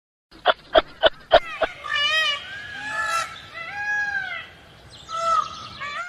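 A bird giving a run of short calls that rise and fall in pitch, each about half a second long, after a quick series of sharp clicks in the first second and a half.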